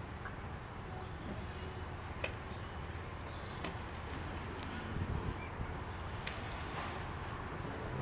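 Small birds chirping: a series of short, thin, high-pitched chirps and warbled notes, coming more often in the second half, over a steady low background rumble with a few faint clicks.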